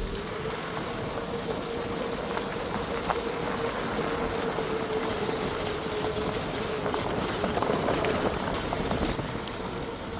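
Safari jeep rolling along a rough dirt track: a steady rattling, gravelly noise with small knocks from the body and fittings, and a steady whine that fades out near the end.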